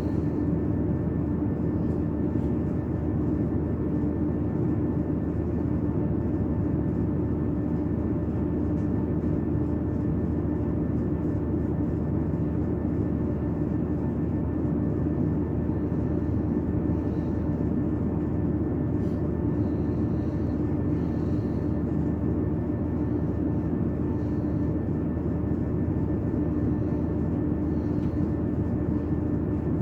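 Steady mechanical hum inside a train carriage, with a constant low whine and no change in level.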